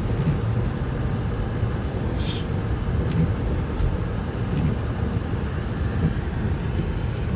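Snowstorm wind buffeting the microphone: a steady low rumble, with a brief hiss about two seconds in.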